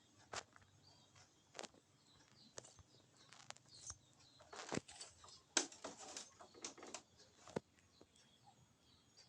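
Scattered clicks, taps and rustling, busiest around the middle, with faint high chirps in the background.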